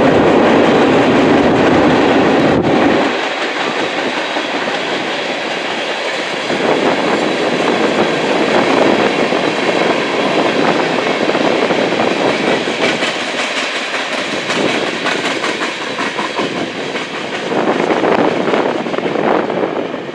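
Freight cars of a mixed freight train rolling past, steady loud wheel-and-rail noise with a repeated clickety-clack as the wheels cross rail joints, the clacking sharper in the second half.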